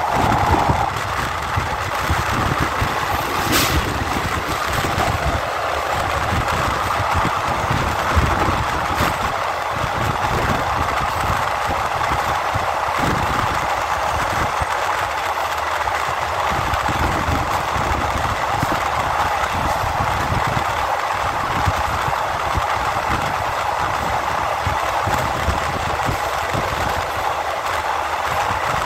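Passenger train carriage running at speed along an elevated track, heard at an open window: a steady rush of wind and wheel noise on the rails. There is a brief sharp tick about three and a half seconds in.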